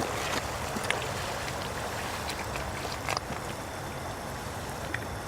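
Running water with a steady rushing sound and a few faint clicks.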